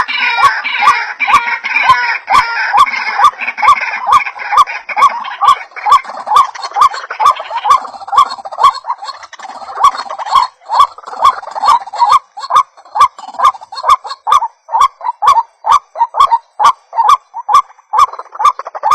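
White-breasted waterhen (ruak-ruak) calling: a fast run of repeated croaking notes, about two to three a second, with a second bird's higher calls overlapping in the first few seconds.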